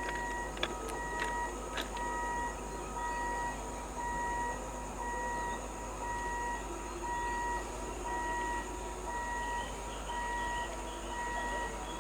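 Electronic warning beeper sounding steadily, alternating between a high and a lower tone, each held about half a second, with a few sharp clicks in the first two seconds.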